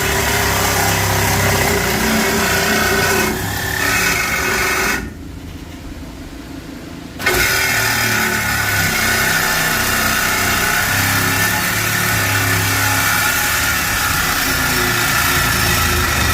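A loud motor running steadily with a whine, cutting off about five seconds in and starting again about two seconds later.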